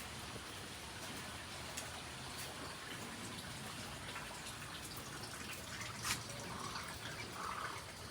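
Water dripping in scattered single drops over a faint, steady hiss of trickling water, as rainwater drains after a heavy downpour.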